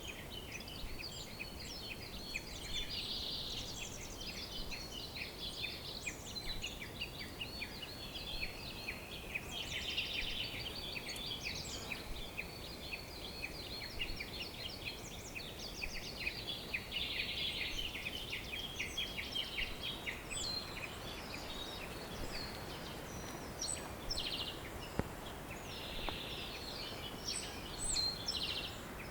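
A chorus of many songbirds chirping and trilling at once, their rapid calls overlapping throughout, over a steady background hiss.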